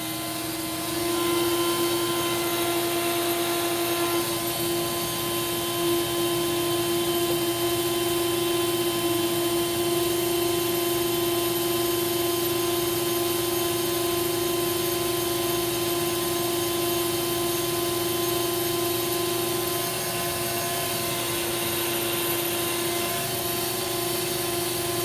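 Hoover Celebrity Quiet Series canister vacuum running steadily on high speed with the power nozzle off, a constant motor hum with a strong steady whine.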